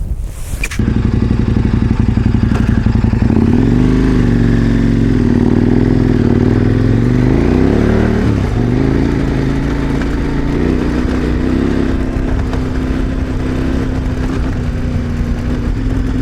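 KTM 1090 Adventure R motorcycle engine running under way, coming in suddenly about a second in. Its pitch rises and falls several times with throttle and gear changes in the first half, then holds steadier at cruising revs.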